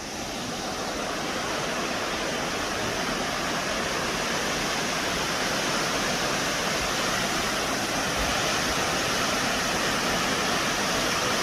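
Waterfall with a steady, dense rush of falling water, swelling slightly over the first couple of seconds and then holding even.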